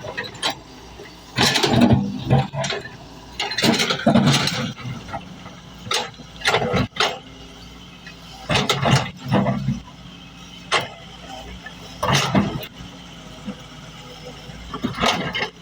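Excavator's diesel engine running steadily, with short louder bursts every second or two over it.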